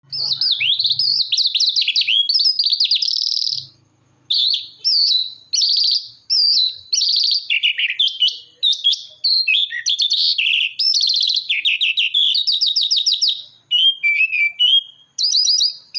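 A lark singing a long, fast, varied song of high chirps, rapid trills and gliding whistled notes in quick phrases, with a brief pause about four seconds in.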